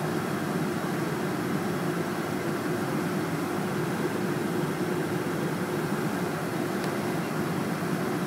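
Steady drone of a Boeing 747-400ER airliner with its engines running, holding an even level and pitch throughout.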